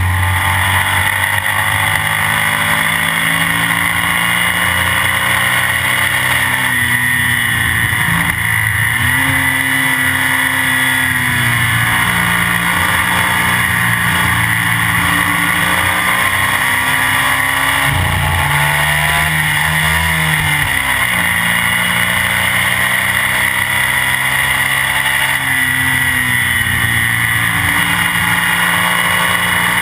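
Classic racing sidecar outfit's engine at race pace, recorded on board. The pitch drops as it slows for corners and climbs again as it accelerates, twice, over steady wind and road rush on the microphone.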